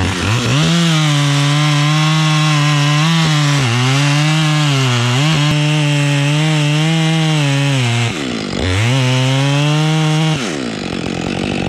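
Gas chainsaw revved to full throttle and cutting wood, its pitch dipping briefly a couple of times as the chain loads up in the cut. It drops back to idle about eight seconds in, revs up and cuts again for about two seconds, then falls back to idle near the end.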